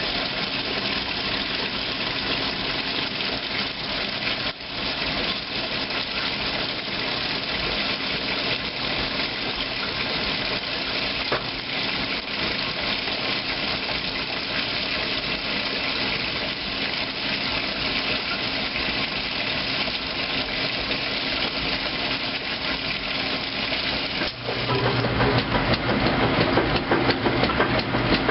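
2008 Kenmore top-load washing machine running its heavy duty cycle, with a steady swishing of water in the tub. About three-quarters of the way through, a motor hum comes in and the machine gets louder.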